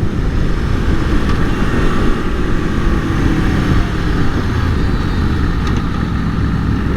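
Aprilia Tuono V4 motorcycle being ridden on the road: its V4 engine running steadily under a loud, even rush of riding noise.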